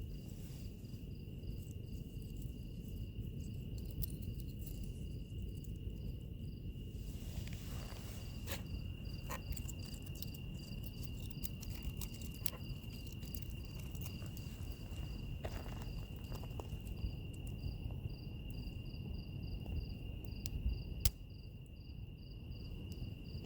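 Crickets trilling steadily, with a faster pulsing insect call above them, over the low hiss and scattered crackles of a burning wood fire; one sharper pop near the end.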